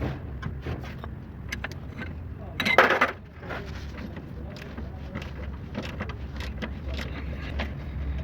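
Car engine running with a steady low hum, overlaid by scattered sharp metallic clicks and clinks, and a short louder burst of noise about three seconds in.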